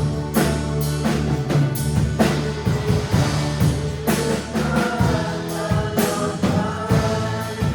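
Church worship band playing a song: a steady drum-kit beat under sustained instruments, with singing.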